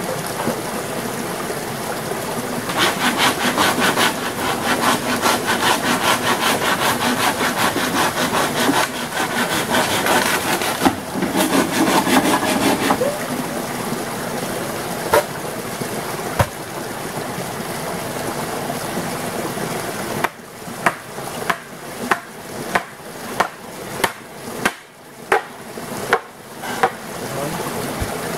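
Hand saw cutting wood in fast, even strokes, followed later by about a dozen sharp knocks on wood, roughly two a second.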